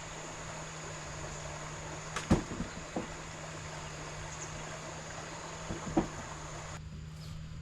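A few sharp knocks over a steady hiss and low hum: a loud knock with two smaller ones after it, another knock a moment later, then a pair of knocks a few seconds on. Near the end the hiss suddenly drops away.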